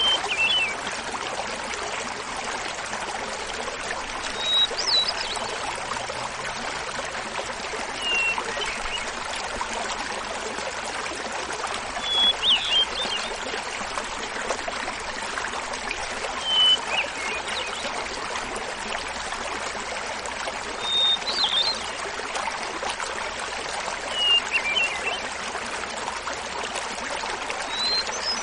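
Hermit thrush singing: about eight phrases, each a held opening whistle followed by a quick fluting flourish, repeated about every four seconds at alternating higher and lower pitches. Under it runs the steady rush of a small mountain waterfall.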